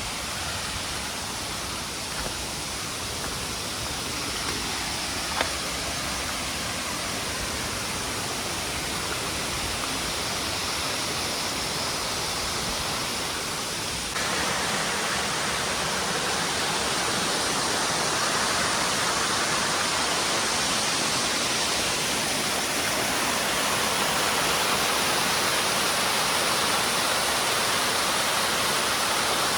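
Waterfall rushing steadily: a dense, even roar of falling water. It gets louder about halfway through.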